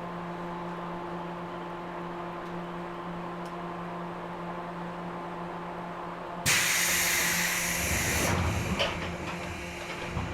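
Cabin sound of a standing 113 series electric train: a steady hum from its onboard equipment, then about six seconds in a sudden loud hiss of compressed air from the train's pneumatic system lasting about two seconds, followed by rumbling and a few knocks.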